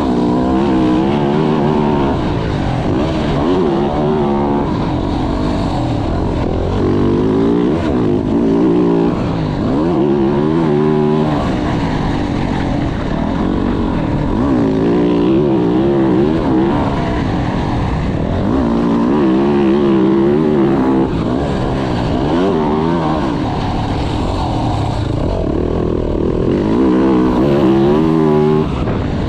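Yamaha YZ450F dirt bike's 450 cc single-cylinder four-stroke engine under hard riding, revving up and dropping back again and again as the throttle is opened and closed and the bike shifts gears.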